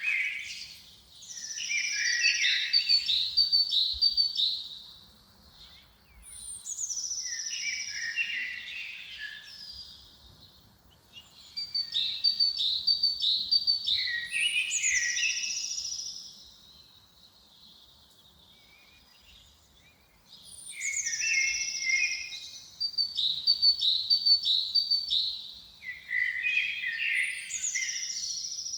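A songbird singing the same phrase over and over, five times with short pauses between. Each phrase opens with high notes and runs down through quick trilled notes to lower ones.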